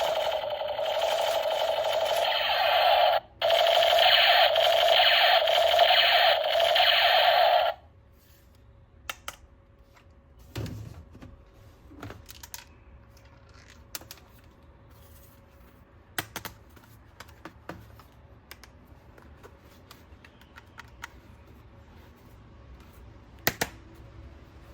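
Battery-powered toy gun running: a loud, pulsing buzz that breaks off briefly about three seconds in and stops about eight seconds in. After that come small, scattered plastic clicks and taps of the toy being handled.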